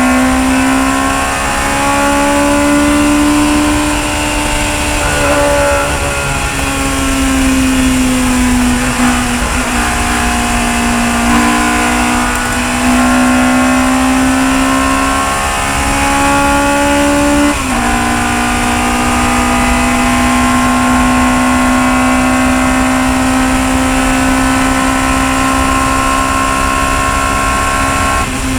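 Chevron B19 sports-racing car's engine held at high revs. The pitch drops briefly at each of several gear changes in the first eighteen seconds, then stays steady at a constant high pitch for the last ten seconds.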